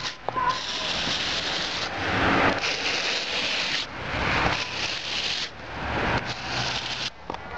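Blizzard wind blowing in gusts: a rushing hiss that surges and eases every second or two.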